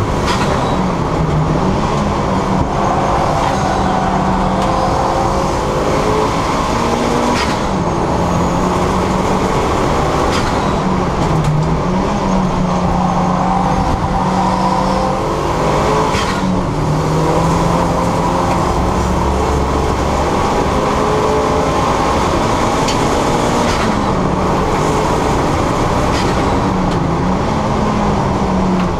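Turbocharged 2.0 Duratec four-cylinder engine of a Mk6 Ford Fiesta ST150 running hard on a circuit, loud and continuous. The revs dip and climb back several times.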